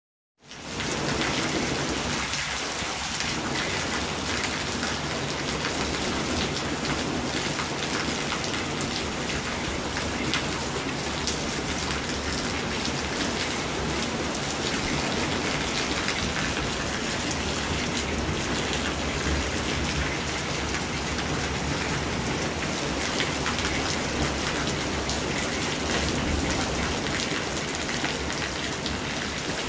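Steady rain falling on a wet paved patio, with scattered drips ticking through it.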